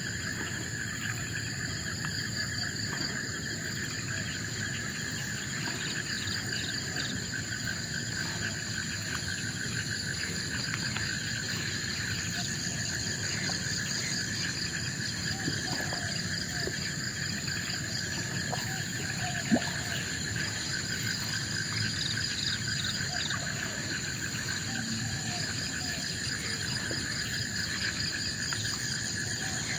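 A chorus of forest insects trilling steadily at several different pitches, over a low background rush. There are a few faint short calls, and one sharp click about two-thirds of the way through.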